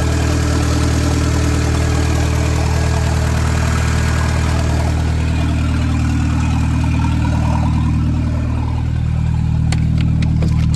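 Cold Volkswagen Jetta TDI diesel engine idling steadily, running on its newly fitted Cat fuel filter after the injectors were bled. A few light clicks sound near the end.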